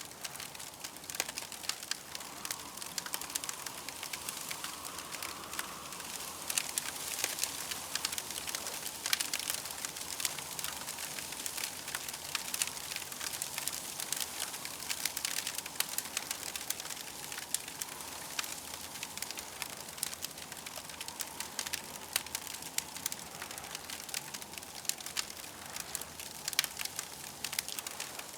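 Campfire crackling steadily, with dense, irregular small pops and snaps over a soft hiss.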